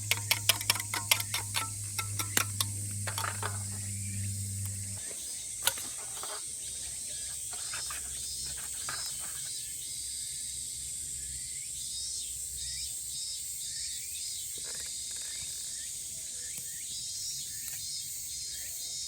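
Cicadas droning steadily in a summer chorus. In the first few seconds a fast run of sharp ticks, the loudest sounds, plays over a low steady hum that stops about five seconds in.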